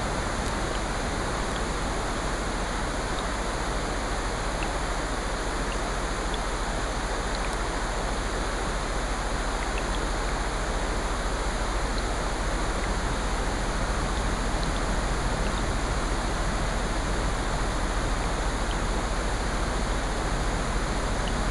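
Steady mixed ambience of falling rain and ocean surf, an even rushing noise, with a few faint scattered ticks.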